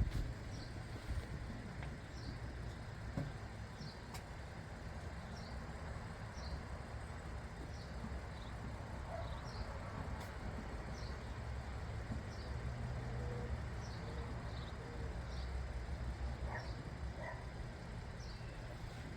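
Outdoor ambience: a steady low rumble like distant traffic, with a small bird chirping over and over, a short high chirp about once a second.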